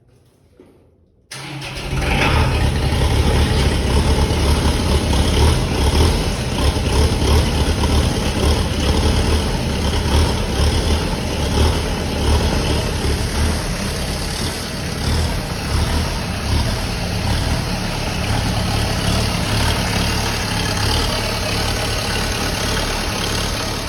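Kubota L5240 tractor's four-cylinder diesel engine cold-starting: it catches suddenly a little over a second in, then runs loud and uneven for several seconds before going on a little quieter and steadier. The cold-start sputter is usual for this tractor, which the owner puts down to injection timing retarded from the factory.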